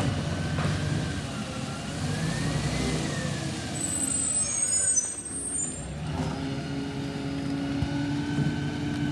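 Garbage truck engine running steadily, with a whine that rises and falls about two seconds in and a short high hiss and squeal around the middle.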